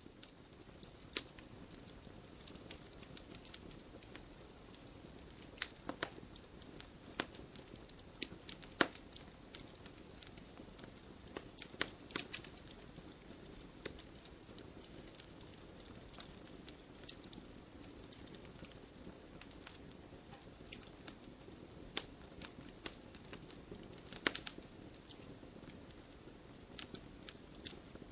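Campfire crackling: irregular sharp pops and snaps of burning wood over a steady low rush of flames, with a few louder pops among them.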